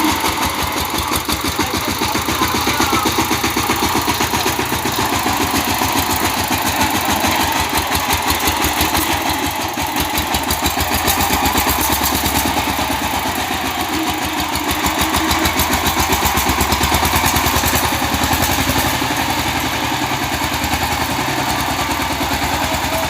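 Power tiller's single-cylinder diesel engine running with a rapid, even beat. It swells louder a few times, around three, eleven and seventeen seconds in.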